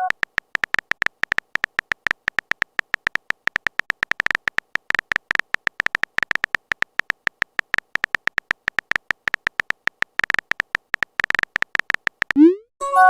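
Chat-style typing sound effect: a fast, irregular stream of short electronic tick-beeps as a message is typed out, ending near the end with a short rising pop and a brief chime as the message is sent.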